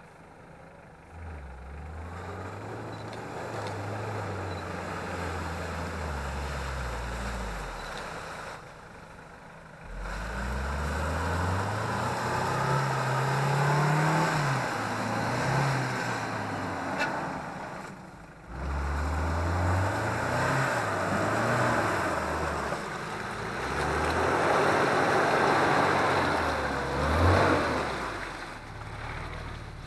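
Off-road 4x4's engine revving up and easing off again and again, its pitch climbing several times, with a steady rushing noise over it and two brief drops to a lower level about a third and about two-thirds of the way through.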